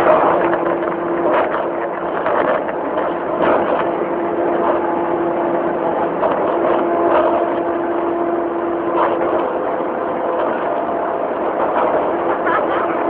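Heavy tunnel-construction machinery running steadily, a hum with held tones and occasional short knocks.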